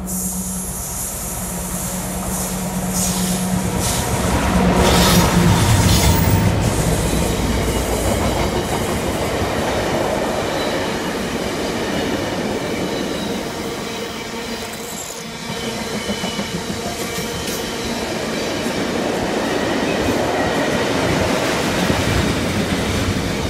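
Diesel-hauled freight train passing: the locomotive's engine hum builds to its loudest about five seconds in, then a long rake of bogie tank wagons rolls by with steady wheel-on-rail noise, clattering over rail joints. A thin high wheel squeal runs through the second half.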